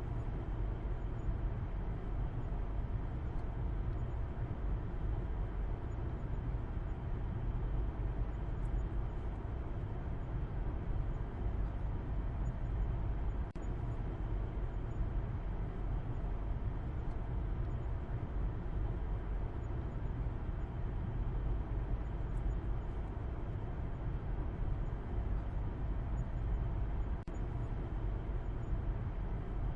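Car driving at a steady speed: a constant low rumble of engine and road noise.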